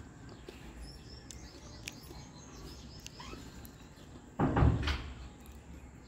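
Faint bird chirps and short whistled calls over a low outdoor background hum, then a brief loud noise about four and a half seconds in, lasting about half a second.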